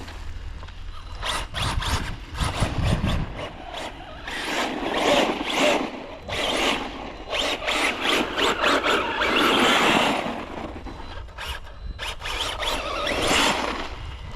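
Team Corally Kagama 6S RC car driven in irregular throttle bursts, its brushless motor and drivetrain whining and tyres scrabbling over the ground.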